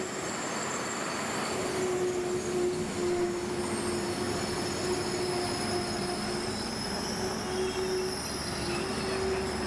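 Transwa Prospector diesel railcar set rolling slowly past along a station platform, a steady running hum with a wavering mid-pitched drone and thin high-pitched squealing from the running gear as it pulls in.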